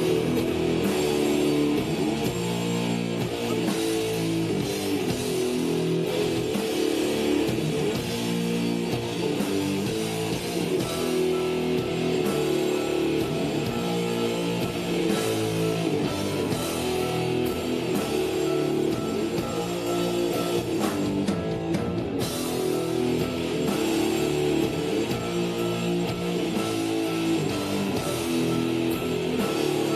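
Rock band playing steadily, with guitar to the fore over a drum kit.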